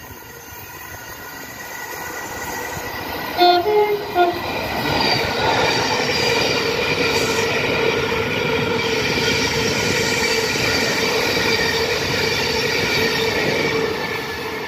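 Thameslink Class 700 electric multiple unit approaching and running past the platform at speed, its noise building over the first few seconds. A few short horn toots sound about three and a half seconds in, followed by a steady run-past with a held whine.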